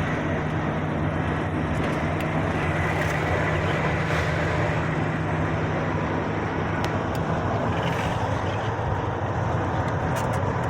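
Truck engine running at a steady drone with road noise while driving.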